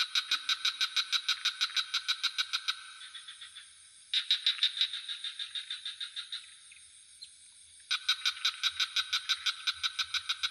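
Frog calling in bouts of rapid pulsed trills, about seven or eight pulses a second, each bout running a few seconds and fading out; new bouts start about four and eight seconds in. A steady high-pitched insect drone, crickets, runs underneath.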